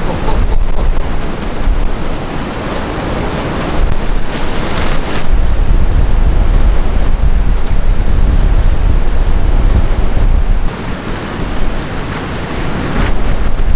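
Strong storm wind gusting and buffeting the microphone: a loud rushing noise with a heavy low rumble. It eases briefly about two seconds in and again for a couple of seconds past the ten-second mark, then picks up again.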